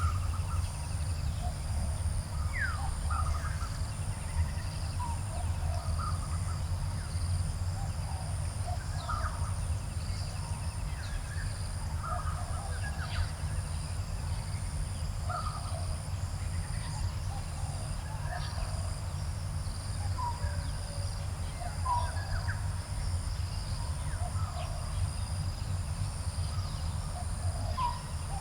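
Garden birds calling: many short chirps and whistles from several birds, scattered all through, over a steady high insect drone and a constant low rumble.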